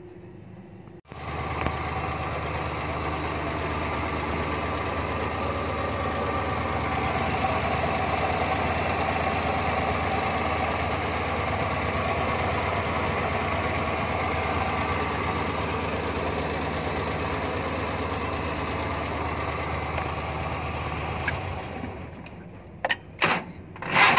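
Suzuki Bolan's petrol engine, converted to run on LPG, idling steadily. It comes in abruptly about a second in and drops away near the end.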